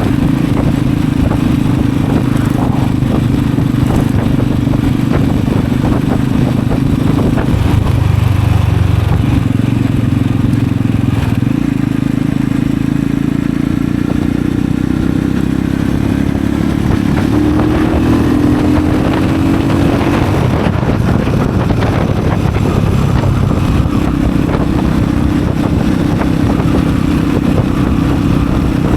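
Kengo Classic 400cc motorcycle exhaust while riding. The engine note is steady, dips about eight seconds in, then climbs in pitch for several seconds as the bike accelerates. It drops back at about twenty seconds and settles into a steady cruise again.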